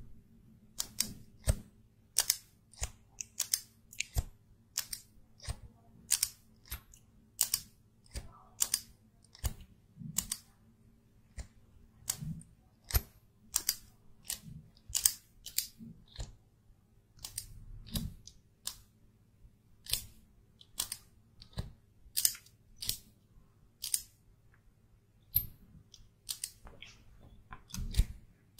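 Makeup products and their plastic cases being handled close to the microphone: a string of sharp clicks and taps, irregular, about one or two a second, over a faint steady low hum.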